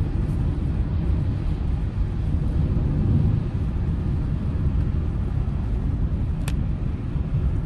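Steady low rumble of a car in motion, heard from inside the cabin, with a single sharp click about six and a half seconds in.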